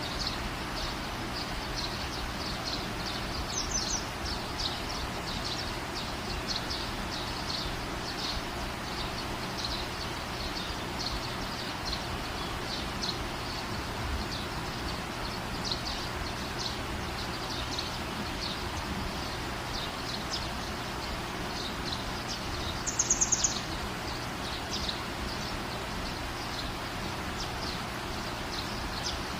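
Outdoor background noise with small birds chirping repeatedly, short high chirps every second or so, and one brief rapid louder call about three-quarters of the way through.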